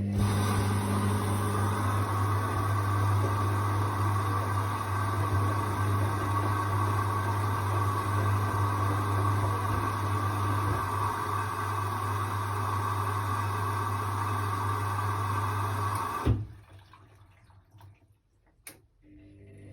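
Hoover washing machine filling with water: water rushing in through the inlet valve and detergent drawer over a steady electrical hum. It cuts off suddenly about 16 seconds in with a sharp knock, and a single click follows a couple of seconds later.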